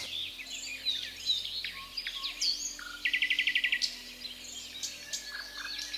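Birds chirping and whistling in a rainforest chorus of short, high calls, with a rapid even trill about halfway through.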